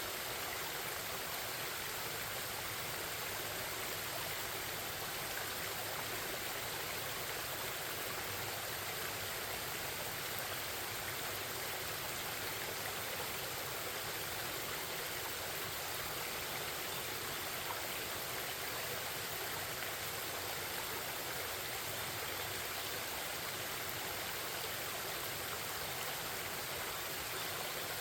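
Forest stream flowing steadily over rocks, a continuous babbling rush of water.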